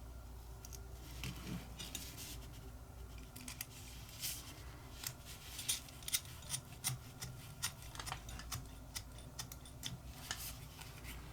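Irregular light clicks and taps of small metal lighter parts being handled and fitted, a few at first and then many from about four seconds in.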